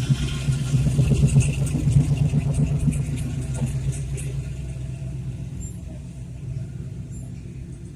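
A car engine running with a deep, rapidly pulsing exhaust note that slowly fades over the last few seconds.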